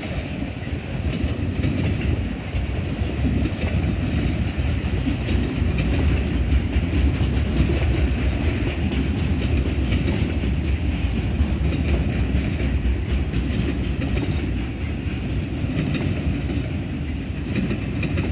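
Loaded autorack freight train rolling past: a steady rumble of cars with wheels clicking over the rail joints.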